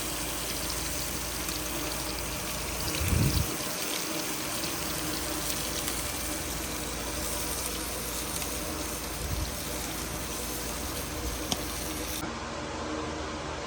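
Steady rushing of running water, with a brief low thump about three seconds in.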